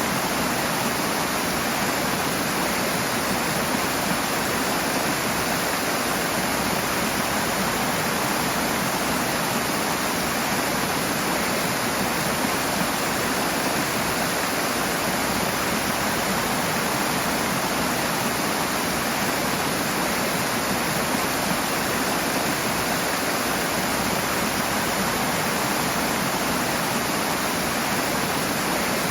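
Rushing water of a stream or falls, a steady, unbroken roar of moving water.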